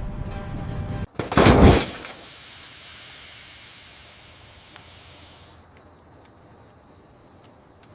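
Explosion sound: a rumbling blast cuts off about a second in, then a single loud boom that fades into a long, slowly dying hiss. Faint regular ticks follow near the end.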